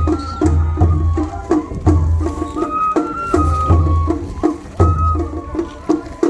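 Japanese festival hayashi music played on a float: a high bamboo flute melody over a steady, quick pattern of taiko drum strikes.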